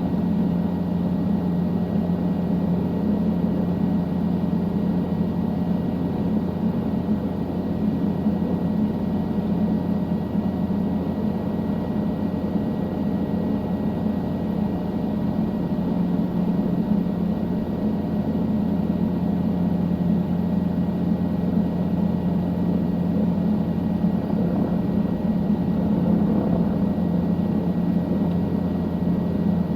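Helicopter in flight, heard from on board: a steady, unbroken drone with a faint high whine.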